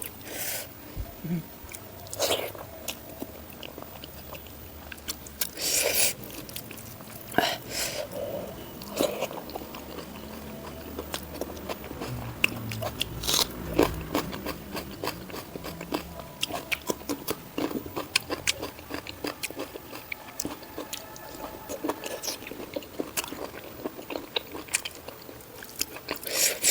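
Close-miked eating: a person biting and chewing food, with frequent short crunches and wet mouth clicks at an irregular pace, a few louder crunches standing out.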